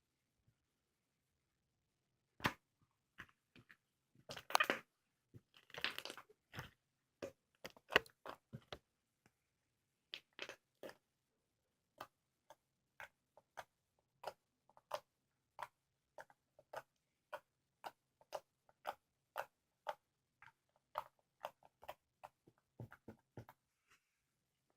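Slime being squished and pressed by hand, giving faint, sharp clicks and pops at an irregular pace, with a denser crackling stretch about four to six seconds in.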